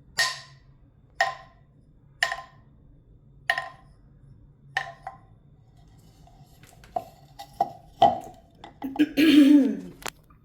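Hollow, pitched knocks like a wood block being struck, about once a second for the first five seconds, then a few scattered knocks. Near the end comes a short, louder sound that falls in pitch, like a voice.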